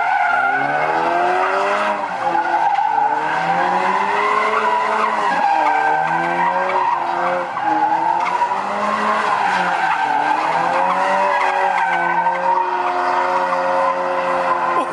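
A car's tyres squealing in a sustained skid while its engine revs rise and fall over and over.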